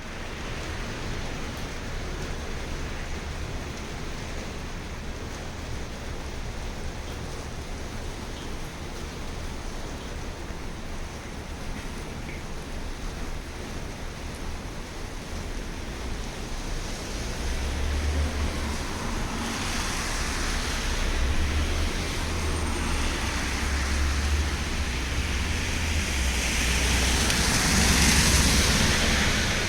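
LiAZ 5292.65 city bus on the move, heard from inside: steady engine and road noise. From about two-thirds of the way in, a low engine drone and a hiss grow louder.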